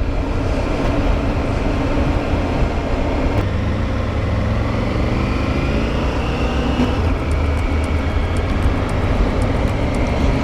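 Motorcycle riding noise: wind fluttering on the microphone over the rumble of a Triumph Tiger 900's engine and tyres, steady throughout.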